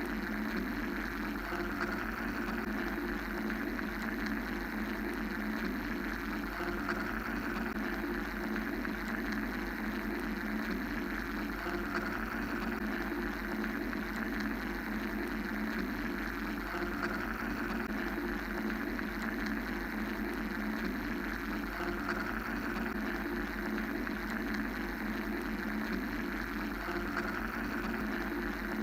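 Steady mechanical white-noise drone with a low hum and a midrange rumble, and a higher hiss that swells and fades gently about every five seconds.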